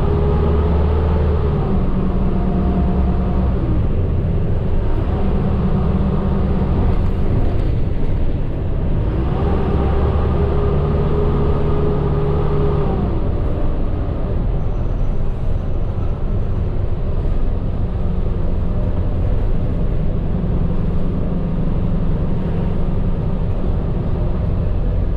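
Medium bus driving, heard from inside the cab: a steady low engine and road rumble, with a whining tone that rises and fades near the start and again from about ten to thirteen seconds in.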